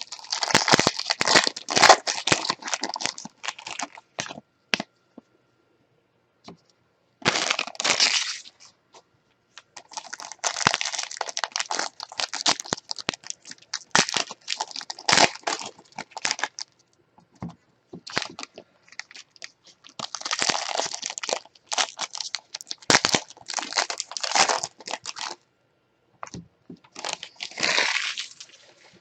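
Plastic wrapping crinkling and tearing in irregular bursts as a trading card box and pack are opened by hand, with short pauses between bursts.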